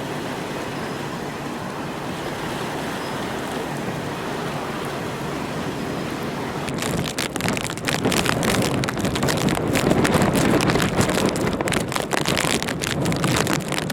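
Hurricane wind and heavy rain: a steady rushing noise, then, about halfway through, dense rapid pattering of raindrops striking close by joins in and grows louder.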